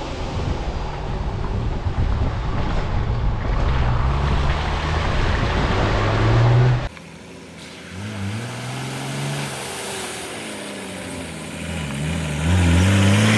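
Toyota LandCruiser 105 engine driving on the road, with rumbling road and wind noise; its pitch climbs as it accelerates. About seven seconds in the sound cuts abruptly to a quieter stretch, where the engine pitch rises and falls through gear changes and climbs again near the end.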